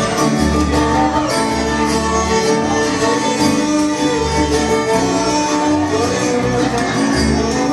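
Band playing an instrumental break in a country/bluegrass song, with fiddle and guitar over a steady bass line.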